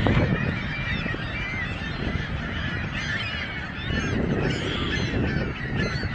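A large flock of birds calling all at once, many short calls overlapping in a continuous din.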